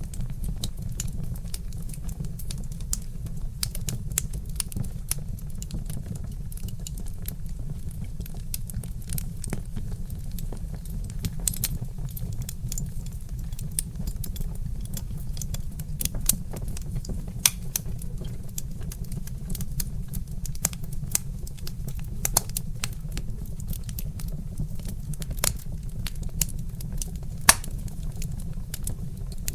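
Log fire crackling: a steady stream of small irregular pops and snaps over a constant low rumble, with a few louder pops now and then.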